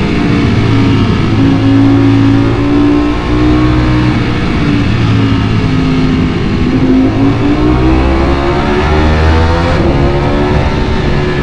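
Ducati Panigale V4 motorcycle's V4 engine running hard on the road. Its pitch dips about six seconds in, then climbs steadily as the rider accelerates.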